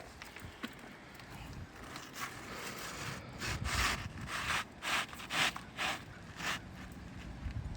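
A run of about six short scraping strokes on asphalt roof shingles, after a few seconds of faint rustle.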